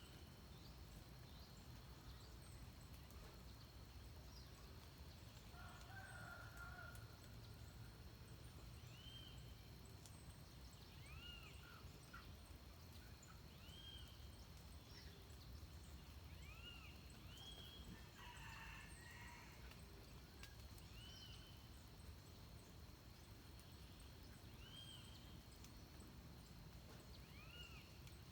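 Faint birds calling at dawn: one short, arched call repeated every second or two, with a few brief chattering calls among them, over a steady high-pitched tone.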